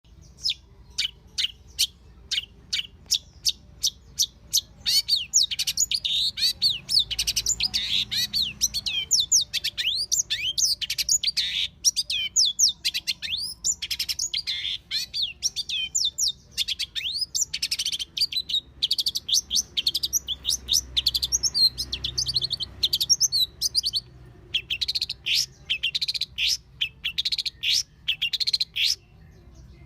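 Long-tailed shrike singing: first a run of sharp, clipped notes about two a second, then a fast, varied warbling song of rapid rising and falling whistles.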